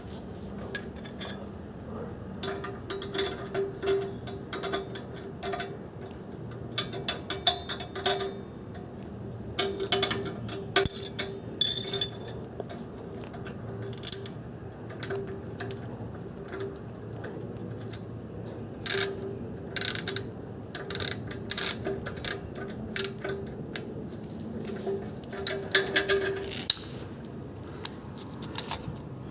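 Hand tools clicking and clinking against metal parts in a car's engine bay as loose parts are tightened: irregular sharp clicks in short clusters over a steady low hum.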